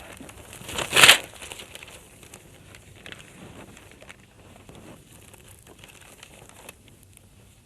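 Newspaper pages rustling and crinkling as they are handled, with a short, louder rustle about a second in and faint crackling after it.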